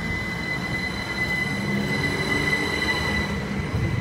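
GWR electric multiple unit passing close alongside the platform: continuous wheel and running-gear rumble with a steady high whine.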